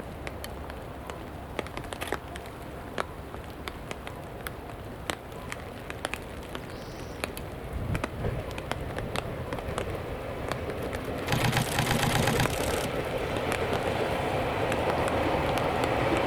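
A train approaching and growing steadily louder through the second half, with a brief louder, noisier stretch about eleven seconds in; light scattered clicks over a low rumble before it.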